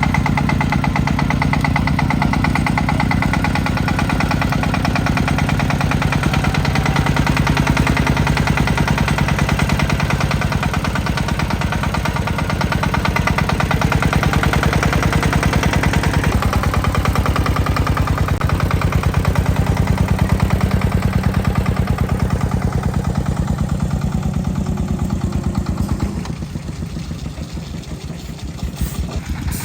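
Tractor engine running steadily with a fast, even firing beat, easing off near the end and then picking up again.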